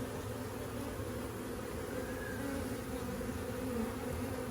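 Honeybees buzzing around an open hive: a steady hum of many bees, with the pitch of single bees wavering up and down as they fly past.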